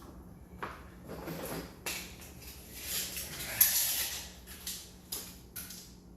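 Scattered clicks and knocks of tools being handled, with a louder scraping rush and a sharp snap about three and a half seconds in.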